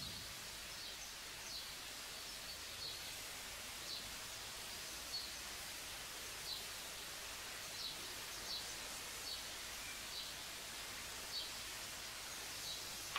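Faint, short bird chirps every second or so over a steady hiss of background noise.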